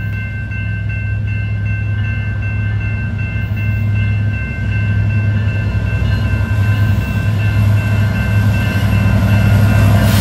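Diesel locomotive engine rumbling as a Union Pacific freight train comes slowly up to a grade crossing, growing louder toward the end, over the steady ringing of the crossing bells.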